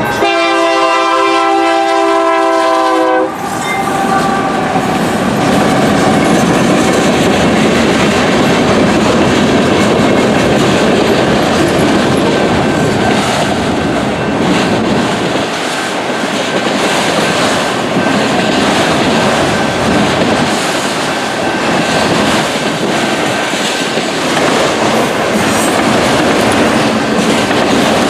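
Lead locomotive's air horn sounding a chord for about the first three seconds, then a freight train led by a GE AC44CW and an EMD SD70ACe passes close by, with loud, steady wheel rumble and clickety-clack of the cars over the rails. An electronic crossing bell rings underneath throughout.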